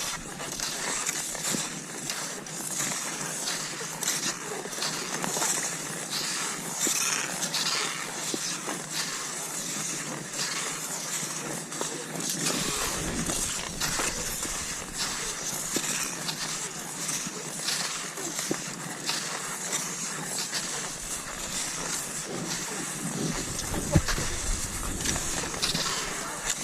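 Cross-country skis swishing and scraping over snow in a steady stride: a continuous hiss broken by many short crunching scrapes, with one sharper knock near the end.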